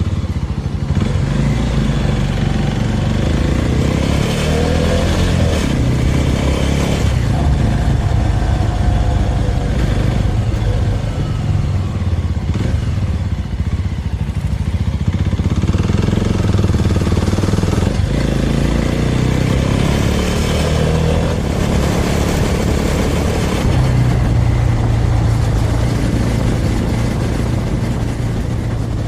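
Small Suzuki motorcycle engine running steadily under way. Its note rises and falls a few times with throttle and gear changes.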